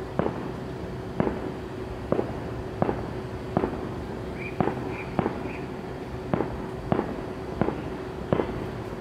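Fireworks going off in a steady series of sharp bangs, about one every three-quarters of a second, over a faint steady hum.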